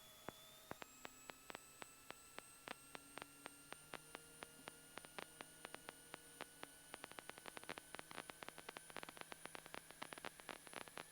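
Near silence: faint electrical hiss with thin steady whine tones that step up in pitch, and a scatter of small clicks that come more and more often.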